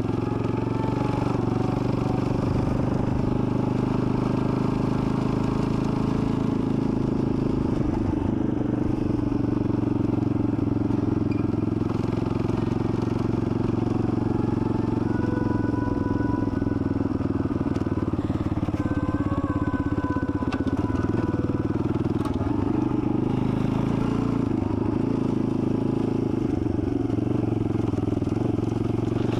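Dirt bike engine running at a steady, even speed while being ridden.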